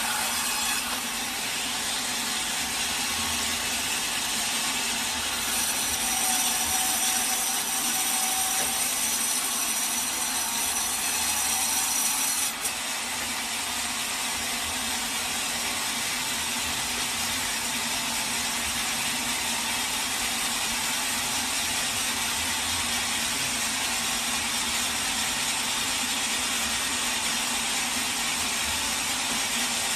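Sawmill saw cutting through a teak log with a steady, loud noise. A high thin whine joins in about five seconds in and stops suddenly about twelve seconds in.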